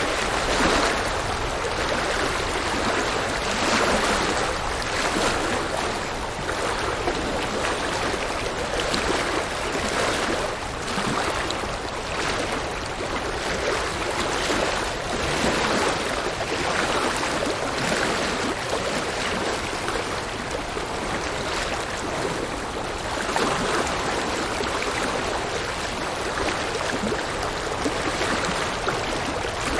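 River water rushing and splashing over rocks in a steady, continuous flow, with small surges.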